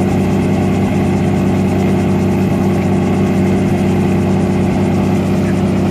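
Helicopter turbine and rotor running, a loud, even drone with a steady hum.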